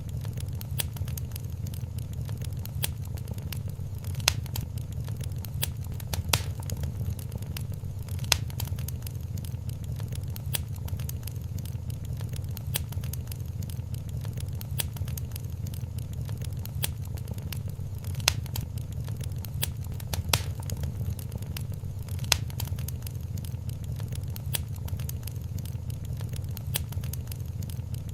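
Wood fire crackling in a fireplace: a steady low rumble under a constant scatter of small crackles, with a few louder pops.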